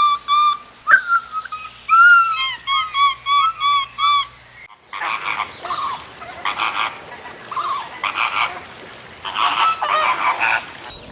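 A songbird singing a fast run of short, repeated whistled notes, which cuts off about four and a half seconds in. Then comes a string of harsh, noisy animal calls in short bursts, about one a second.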